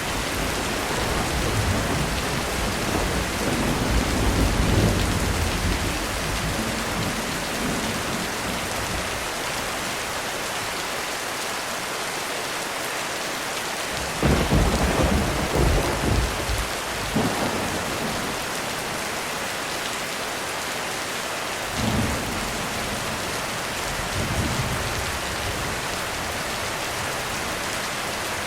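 Heavy rain pattering steadily on a roof, with rolling thunder. A low rumble fills the first few seconds. A loud crack of thunder comes about halfway through, with more claps right after, and weaker rumbles follow near the end.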